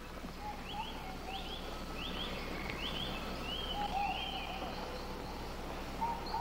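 Jungle birds calling: quick rising chirps, often in pairs, high in pitch, mixed with lower arching calls, over a steady hiss and hum.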